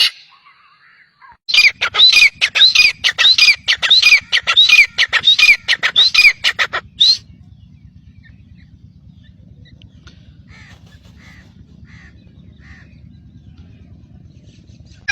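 A bird giving a fast run of harsh squawking calls, about two or three a second, each with a sharp falling note. The run stops about seven seconds in, leaving only a few faint calls over a low steady background.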